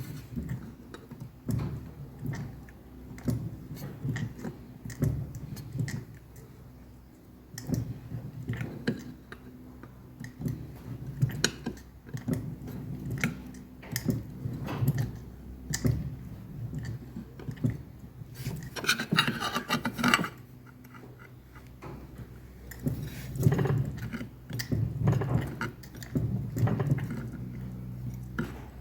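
Hand-operated fly press worked on 2 mm steel plate, giving irregular light knocks and clicks of the tool on the steel as the plate is bumped and shifted. A short scraping noise comes about two-thirds of the way through.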